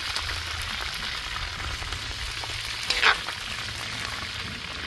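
Chicken pieces and freshly added sliced onion sizzling in hot oil in a kazan over charcoal, a steady frying hiss. About three seconds in, a brief louder sound sweeps in pitch across it.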